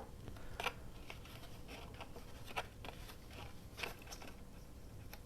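Faint, scattered rustles and light ticks of paper and craft supplies being moved about on a work table, about a dozen short sounds spread unevenly.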